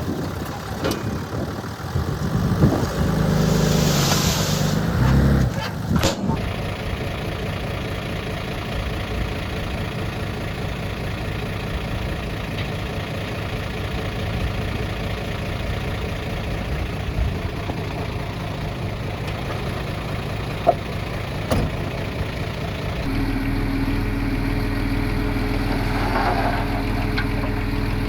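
Heavy diesel earth-moving machinery running, with a louder hissing, clattering stretch a few seconds in, then a steadier low engine hum from about three-quarters of the way through.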